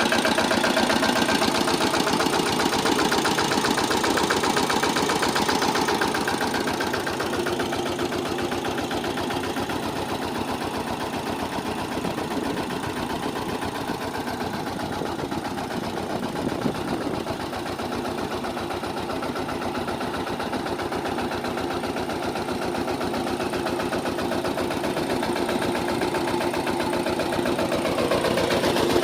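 Engine of a Sanedo, a motorcycle-based mini tractor, running steadily with a rapid even pulse. It is louder for the first six seconds, softer through the middle and grows louder again near the end.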